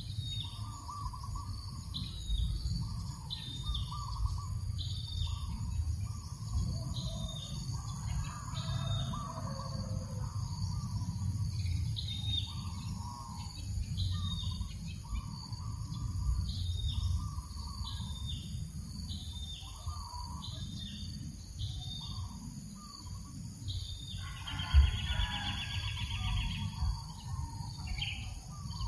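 Birds calling: a short high note repeated about once a second over scattered lower chirps, with a buzzy trill near the end. A low breeze rumble runs underneath, with one short low bump near the trill.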